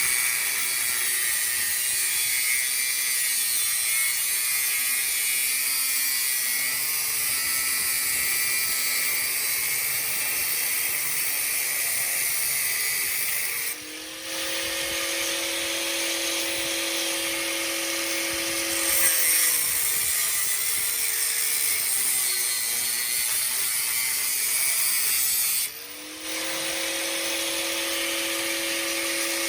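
Angle grinder cutting through a car's exhaust pipe, running continuously with a hissing grind, briefly letting off twice, about 14 s and 26 s in.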